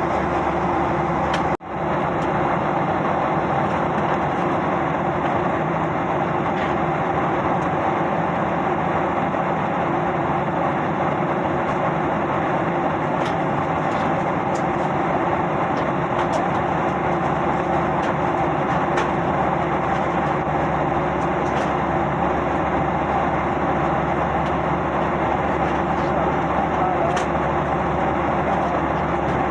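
Steady drone of an airliner's engines and rushing air, heard from inside the passenger cabin, with a momentary dropout about a second and a half in.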